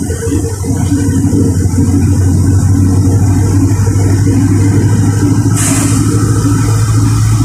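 LiAZ 4292 city bus's diesel engine running with a steady low drone as the bus drives. About five and a half seconds in there is a short sharp hiss.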